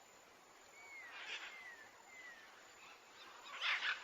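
Faint outdoor ambience with a bird's thin whistled calls: three short notes that glide up and then down. Two short noisy bursts, the louder one near the end.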